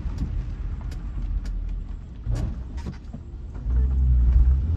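Ford Transit Connect van driving, heard from inside the cabin: a steady low rumble of engine and road that swells louder near the end, with scattered sharp clicks.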